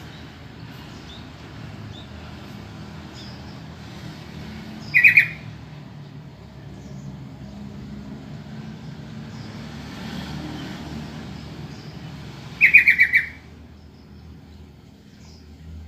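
Sooty-headed bulbul giving two short, rapid chattering calls about eight seconds apart, over a steady low background rumble.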